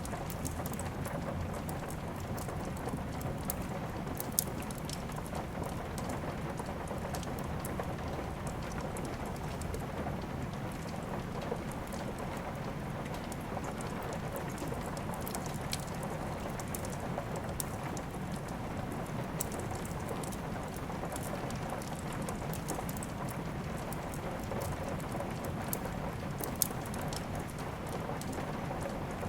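Steady rain mixed with a fireplace crackling: a constant hiss of rain with scattered small sharp crackles, and two louder pops, one about four seconds in and one near the end.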